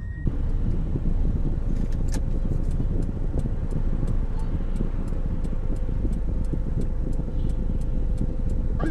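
Car driving, heard from inside the cabin: a steady low road and engine rumble with a faint steady whine and regular faint ticking.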